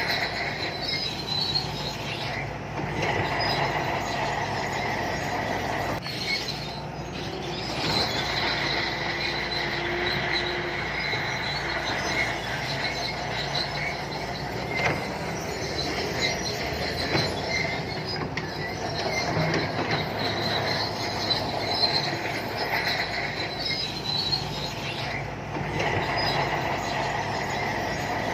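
Shantui crawler bulldozer working, its diesel engine running steadily under the squeal and squeak of its steel tracks, which swells and fades in waves.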